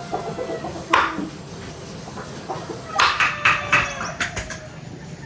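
Chickens clucking, with one sharp knock about a second in and then a quick run of knocks, about four a second, from about three seconds in.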